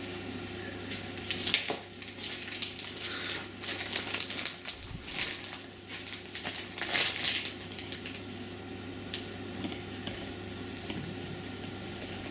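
Packing material being handled while unpacking a dehumidifier: irregular crinkling and rustling for about the first seven seconds, then quieter with only a few light taps.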